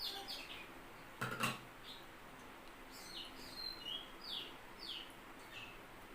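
Small birds chirping in the background, a string of short, high chirps that each drop in pitch, coming about three a second in the second half. A brief noisy burst about a second in is the loudest moment.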